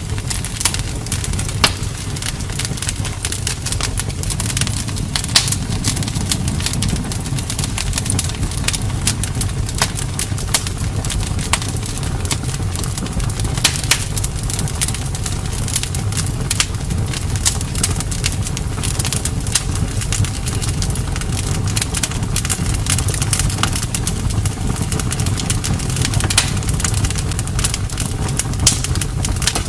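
Wood fire burning: frequent irregular crackles and sharp pops over a steady low rumble of flame.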